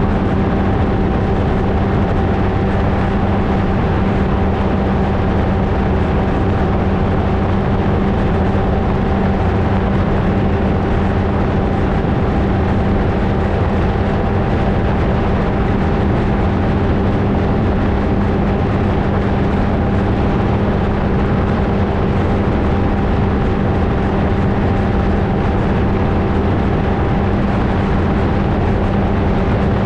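Flightstar II ultralight's two-stroke engine and propeller running at steady power, one unchanging tone with no rise or fall in pitch.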